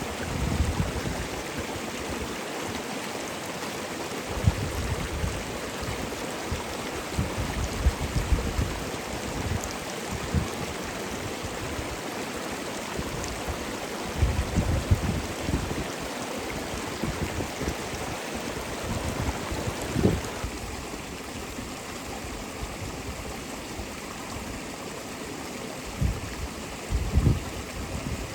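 Steady rushing of running water, like a mountain stream, with irregular low thumps on the microphone, the strongest near the middle and near the end.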